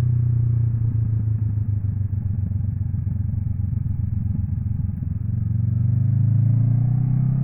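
Honda NX 500's parallel-twin engine under way. It runs steadily, turns uneven and lumpy as the throttle closes, then rises in pitch near the end as the bike accelerates again.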